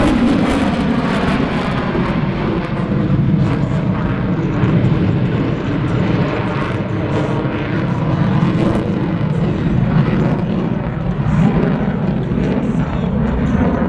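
F/A-18 Super Hornet's twin jet engines, a loud, steady, rumbling noise of a jet flying past that swells and eases slowly.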